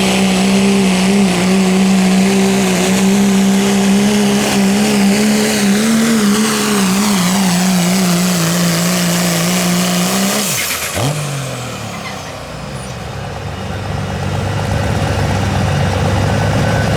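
Diesel pickup pulling a sled at full throttle, holding a steady high engine note. About ten seconds in the engine drops off abruptly as the pull ends, then settles into a low, steady run.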